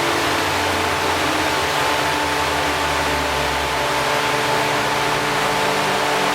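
Prepared Renault 4 engine, a 1557cc Cléon cast-iron four-cylinder on a Weber 40 IDF carburettor, running steadily with a loud, even rush of noise over its low note; the low note shifts a little past halfway through.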